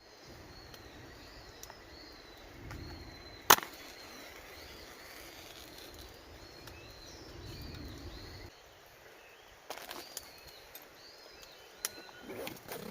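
Wild birds chirping over and over in short arching calls. A few sharp snaps cut in: a single loud one about three and a half seconds in, then more near the end.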